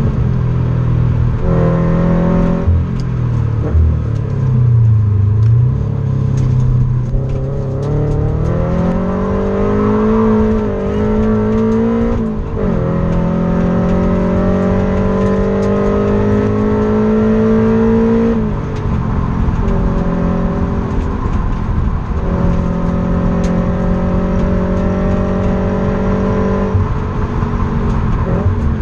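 Car engine heard from inside the cabin while being driven hard. Its note climbs steadily under acceleration and drops sharply three times as the revs fall: a little under halfway, about two-thirds in, and near the end.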